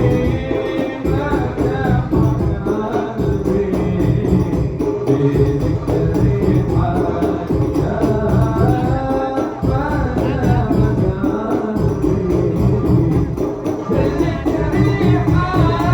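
Arabic sholawat sung by a lead voice over steady frame-drum accompaniment, with the melody rising and falling in long phrases.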